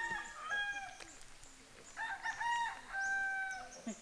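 A rooster crowing twice: one crow already under way at the start and ending about a second in, and a second crow starting about two seconds in and lasting about a second and a half.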